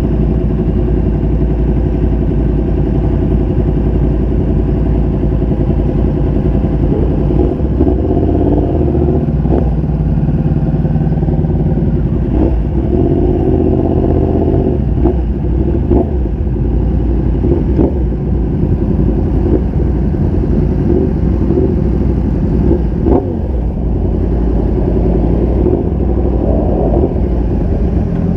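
Motorcycle engine running while riding, steady and loud, with several short knocks or clatters partway through.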